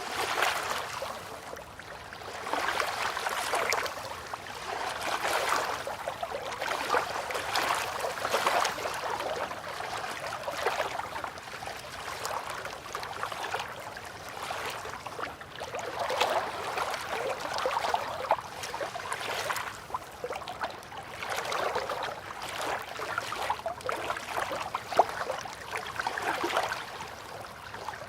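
River water lapping and gurgling against the bank, in gentle surges that swell and ease every two or three seconds.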